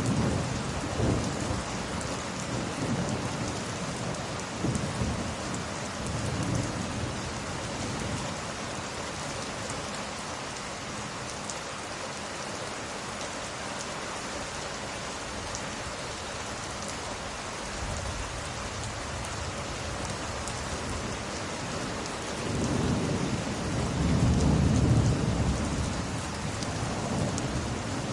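Steady heavy rain with thunder rumbling: low rolls in the first few seconds and a louder, longer one about four-fifths of the way through.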